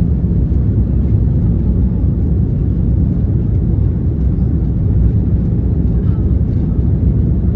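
Airbus A330-200 airliner's steady, loud low rumble of engines and rolling or rushing air, heard from the plane during its takeoff.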